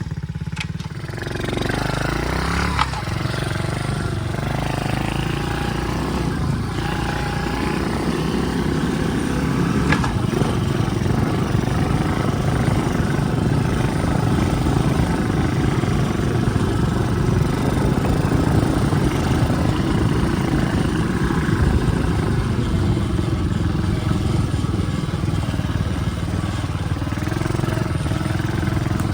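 Tao Tao DB14 110cc single-cylinder four-stroke pit bike engine revving up over the first few seconds, then running steadily.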